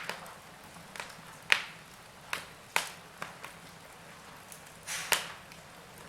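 Fire burning in a fireplace, crackling with sharp pops at irregular intervals over a faint hiss.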